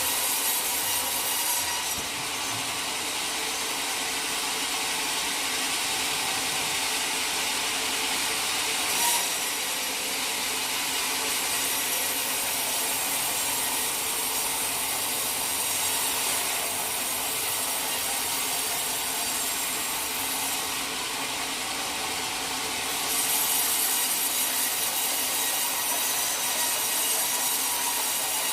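Sawmill saw cutting through a teak log, a steady continuous sawing noise, with one short knock about nine seconds in. The cut gets louder for the last five seconds or so.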